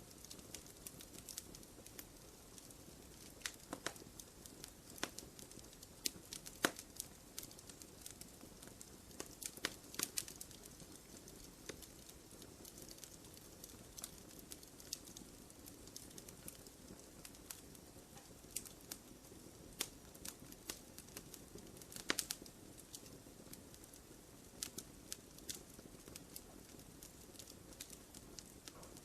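Wood fire in a fireplace crackling: irregular sharp pops and snaps, a few of them louder, over a low steady rustle of the burning.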